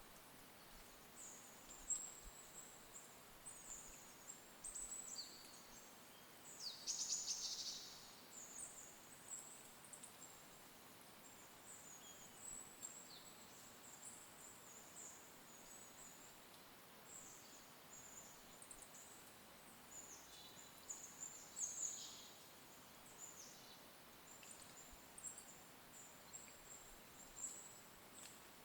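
Small songbirds calling in short, high, thin chirps over a faint steady hiss, with one louder trill about seven seconds in.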